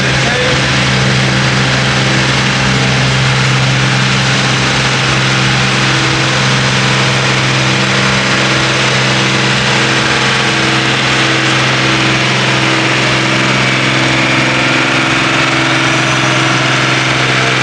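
A pulling tractor's engine running loudly and steadily at an even pitch, its low hum holding the whole time, with a slight change in the higher tones in the second half.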